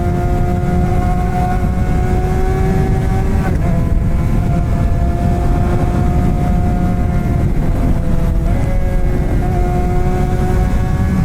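Straight-piped Suzuki GSX-R600 K7 inline-four with an M4 exhaust and no catalytic converter, running at a fairly steady engine speed while riding, under a heavy rumble of wind on the microphone. The engine note changes briefly about three and a half seconds in and again at about eight and a half seconds.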